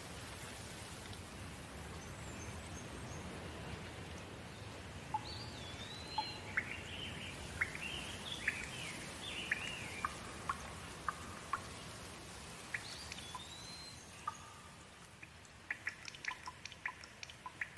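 Steady rain falling, with a bird calling over it in slurred whistles and quick chirps. Near the end the rain gives way to a run of sharp drips.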